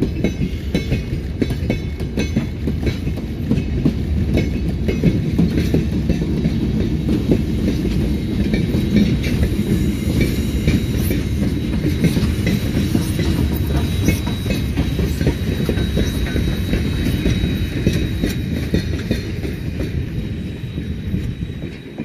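Train passing at close range: wheels clattering over rail joints under a steady rumble as stainless steel SX passenger cars, a diesel locomotive, wagons and BB18¼ steam locomotive 1089 go by. A thin steady high tone comes in about halfway through. The sound drops away near the end as the last vehicle clears.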